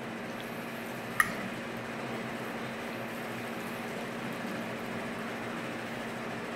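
Steady hiss with a faint low hum, broken by a single sharp click about a second in.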